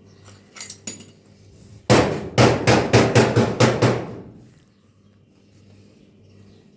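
A quick run of about ten sharp strikes, roughly five a second, starting about two seconds in and stopping about two seconds later, each with a brief ring, preceded by a couple of lighter clicks.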